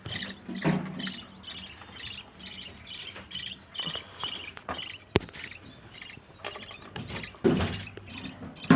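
Budgie chicks calling in a rapid series of short, high squeaky chirps, several a second. A single sharp click comes about five seconds in.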